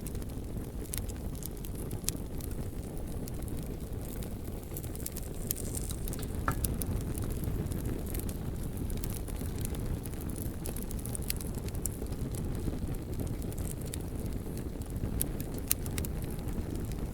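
Bonfire burning with a steady low rumble and scattered sharp crackles and pops from the burning logs.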